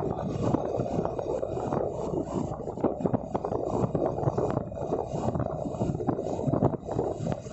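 Wind rushing and buffeting across the microphone on a moving motorcycle, a dense, fluttering low rumble with road and engine noise mixed in.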